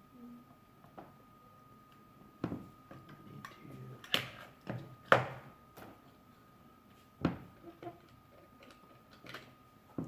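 Irregular clicks and knocks of small plastic toy parts being handled, about half a dozen sharp strikes, the loudest about five seconds in. A faint steady high tone runs underneath.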